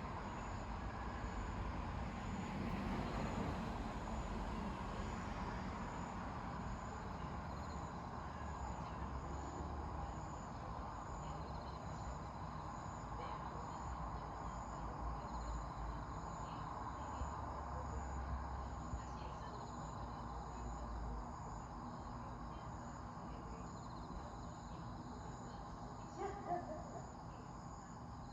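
Night-time outdoor ambience: crickets chirping in a steady, evenly repeating pulse over a low steady rumble. No thunder is heard from the distant lightning.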